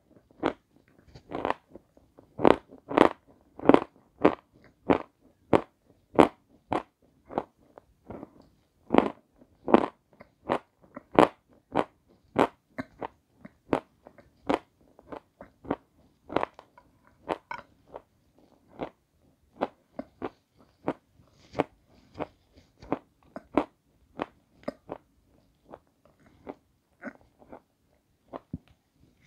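Close-up crunching as hard, snow-white chunks are bitten and chewed: a long run of sharp, crisp crunches about one or two a second, loudest in the first half and softer and more scattered towards the end.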